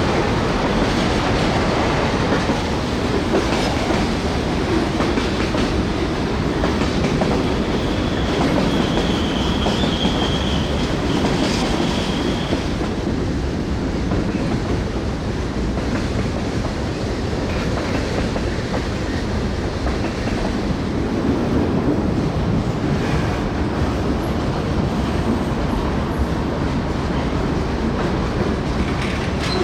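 Freight train rolling past on the rails with a steady rumble, and a brief high-pitched squeal about a third of the way through.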